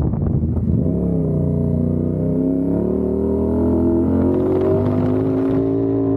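CFMOTO 450SR's parallel-twin engine under way: the engine note drops briefly, then rises steadily as the bike accelerates through the gear.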